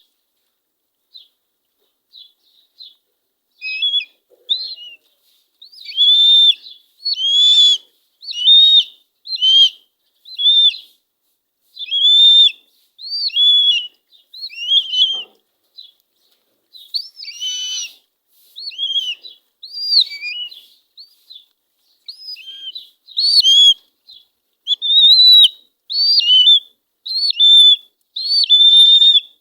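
Eagle chicks begging for food with high, thin, repeated calls, about one a second, each call arching up and then down in pitch; faint for the first few seconds, then loud.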